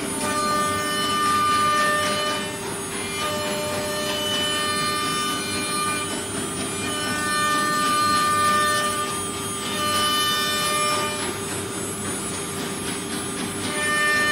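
CNC router spindle with its cutting bit milling wood: a steady whine, with a higher cutting whine that swells and fades every two to three seconds as the bit works along its passes.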